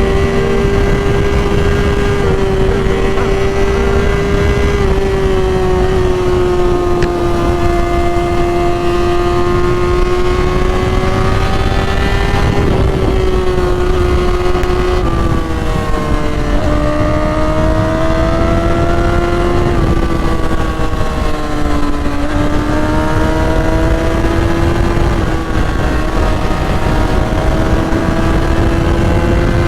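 Sport motorcycle engine running at steady high revs while riding, its pitch gliding up and down with the throttle and dropping clearly a few times, over a steady rumble of wind on the helmet-camera microphone.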